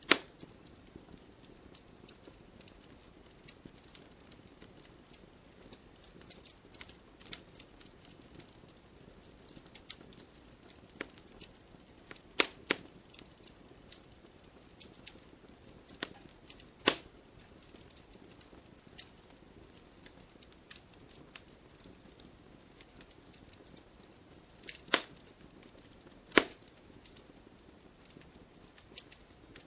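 Wood campfire crackling: a steady run of small irregular snaps over a low hiss, with a few sharp, louder pops about a second in, near the middle and twice near the end.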